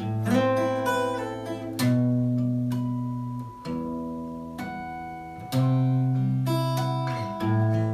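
Acoustic guitar strumming the instrumental introduction to a Russian romance, a new chord struck about every two seconds and left to ring.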